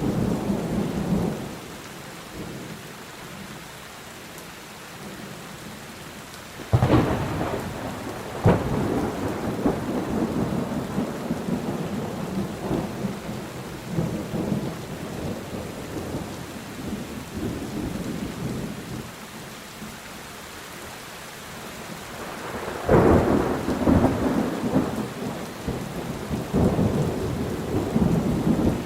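Steady rain on a tin roof, with thunder: a rumble fading in the first second or two, two sharp thunderclaps about 7 and 8.5 seconds in that roll on, and another loud peal about 23 seconds in that rumbles to the end.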